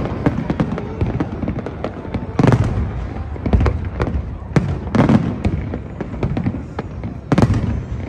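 Aerial fireworks display: a run of sharp pops and crackles, with heavier booms every second or two, the strongest about two and a half seconds in and near the end.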